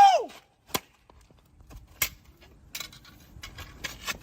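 The tail of a shouted "woo", then two sharp knocks about a second apart, followed by a few faint clicks.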